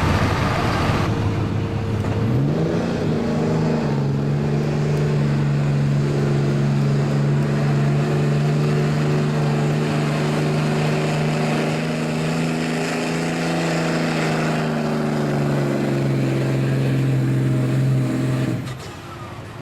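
Street diesel pickup truck's engine revving up and held at high revs under load during a sled pull, then cutting off sharply near the end.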